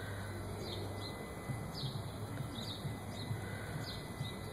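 A small bird chirping repeatedly: short, high, falling chirps about once a second, over a low steady hum.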